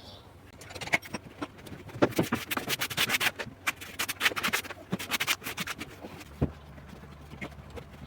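Tiling work: a quick run of clicks, knocks and scraping, as of tools on tile and adhesive, busiest from about two to five and a half seconds in. A faint low hum comes in near the end.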